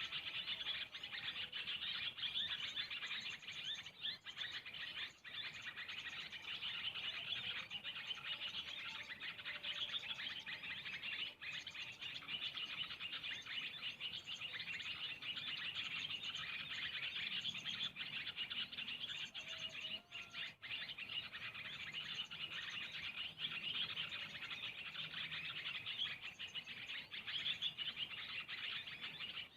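Small birds chirping and twittering in a dense, unbroken chorus of high-pitched notes, with a few lower whistled calls now and then.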